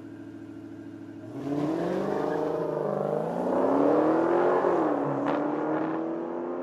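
Dodge Charger SRT Hellcat's supercharged 6.2-litre V8 idling, then revving up hard about a second in and held at high revs with a wavering pitch while the rear tyres spin in a smoky burnout. The revs drop back near the end and hold lower as the sound fades, with a brief sharp click in between.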